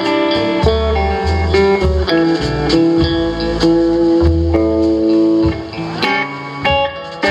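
Live country-style band playing an instrumental break: a guitar picks single-note melody lines over a bass line.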